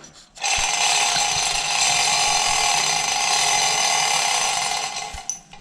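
Steel chain of a hand chain hoist rattling and ratcheting through the hoist in one steady run, starting abruptly and fading out near the end.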